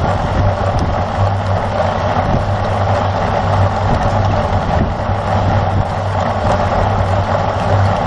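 Steady wind rush over the microphone of a camera riding on a racing bicycle at speed, mixed with the mechanical whir and clicking of the bicycle's drivetrain.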